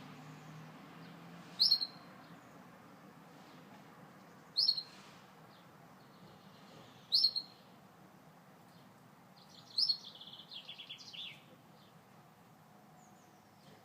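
Gloster canary giving short, sharp chirps, four of them about two and a half seconds apart, then breaking into a brief trill of quick notes lasting under two seconds.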